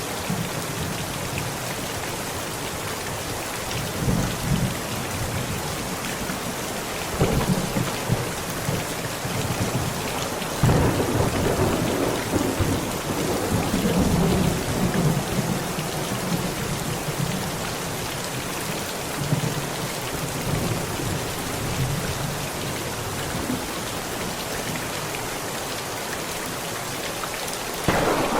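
Heavy rain pounding steadily on a tent, a constant hiss, with thunder rumbling over it several times. The loudest and longest roll starts about ten seconds in and dies away over the next five seconds or so.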